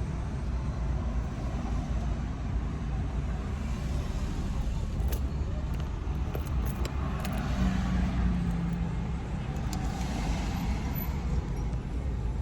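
Steady road and engine noise inside a moving car's cabin: a low rumble with a few faint clicks.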